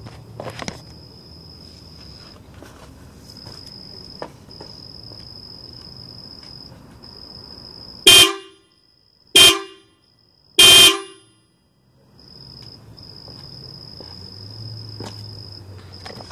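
Pair of aftermarket Sickspeed car horns sounding together in three short, loud blasts about a second apart, the middle one the shortest.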